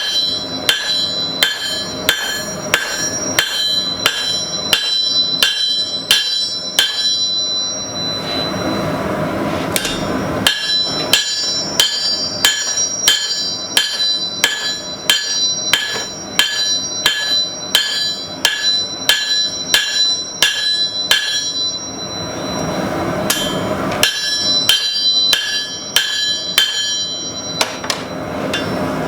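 A hand hammer striking hot carbon steel on an anvil at about two blows a second, each blow ringing brightly. It is the edge bevel of a forged knife being hammered in. The hammering comes in three runs, with two short breaks of steady rushing noise between them.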